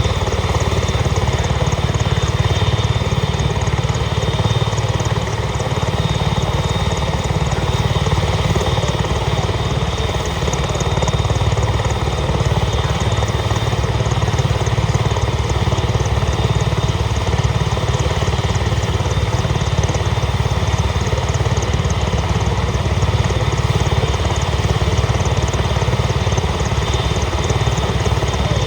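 Italian Navy AgustaWestland EH-101 Merlin helicopter with its three turboshaft engines running and main rotor turning: a steady high turbine whine over a dense low rumble, holding level.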